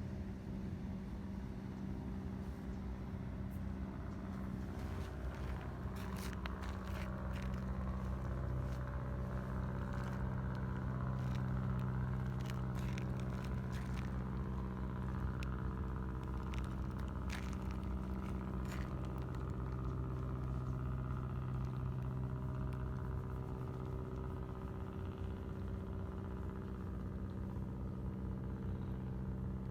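A steady low motor hum runs throughout. Scattered light clicks and scrapes come through the middle stretch.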